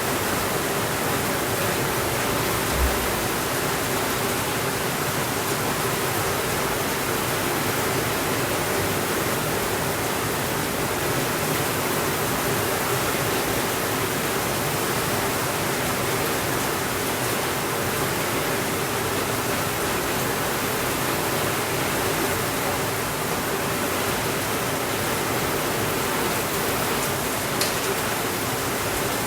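Steady heavy rain on a window, an even rushing hiss with no let-up. A brief soft low thump comes about three seconds in and a single faint click near the end.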